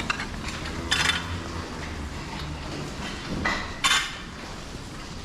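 Two sharp metallic clanks, about three seconds apart, over a low steady hum.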